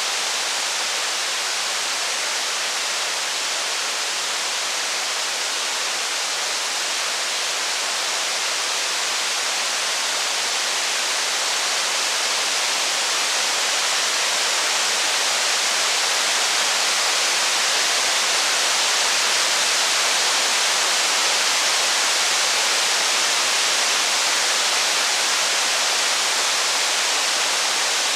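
Steady rain, an even hiss that grows a little louder about halfway through.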